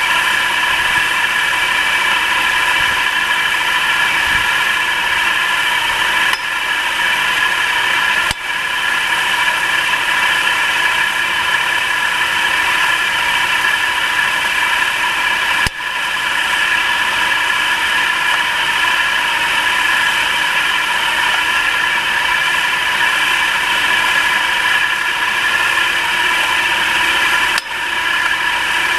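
Nissan March (K13) 1.2-litre three-cylinder engine running at idle, a steady mechanical clatter under the hood with a few brief dips. It is the kind of under-hood knock that the owner hears until the engine warms up.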